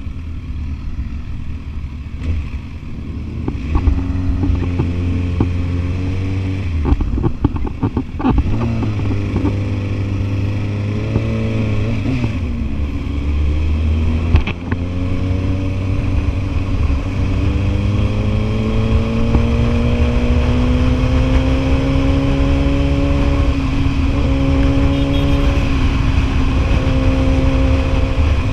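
Sport motorcycle engine pulling under load, its pitch climbing slowly between several brief dips where it shifts gear, over a low rumble.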